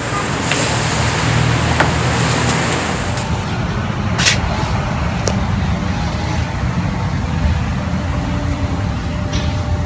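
Steady rumble of road traffic, with a sharp click about four seconds in.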